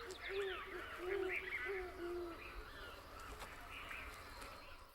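Short, low hooting bird calls, about six in quick succession over the first two seconds or so, over fainter, higher chirping calls of other birds in the background.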